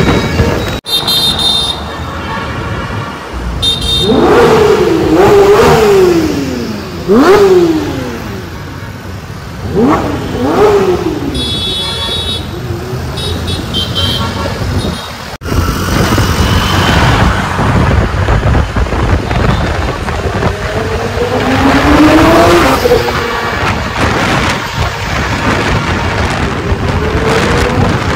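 Porsche 992 GT3 RS's naturally aspirated 4.0-litre flat-six being revved in quick blips, its pitch shooting up and falling straight back several times, over busy street traffic with a few short high beeps.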